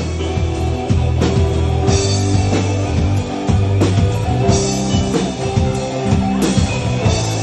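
Instrumental break of a rock song: drum kit keeping a steady beat over bass and guitar, with no vocals.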